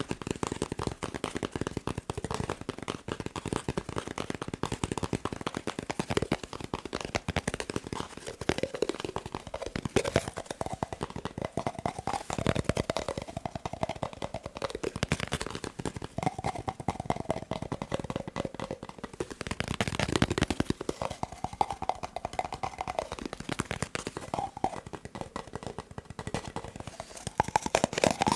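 Fast tapping on a paper roll: a dense, rapid patter of taps with a faint hollow tone that wavers in pitch.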